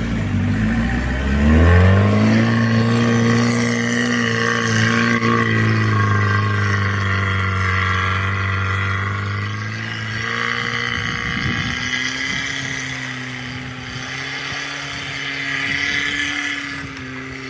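Lada Niva engine revving up over the first two seconds and then held at high revs under load in low-range second gear as the car struggles in a snowy rut. The revs dip slightly about ten seconds in and then rise again.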